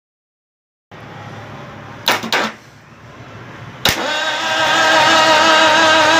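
A car engine being cranked: two brief loud bursts about two seconds in, a sharp click near four seconds, then a loud steady running sound with a slightly wavering pitch that builds over the next second.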